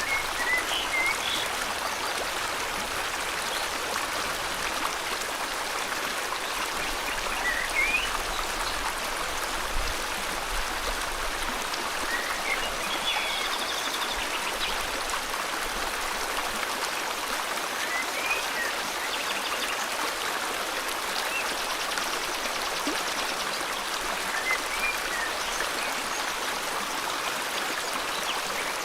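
River water flowing in a steady rush, with short bird chirps breaking in every few seconds, some rising and some falling in pitch.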